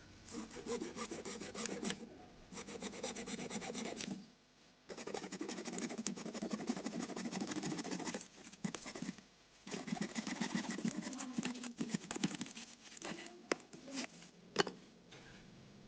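A blade scraping and cutting at a woody lemon tree branch in quick rasping strokes, in four bouts with short pauses between them, followed by a few sharp clicks near the end.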